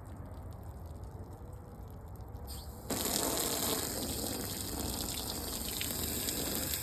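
Garden hose spraying water. The spray starts suddenly about halfway through and then runs on steadily.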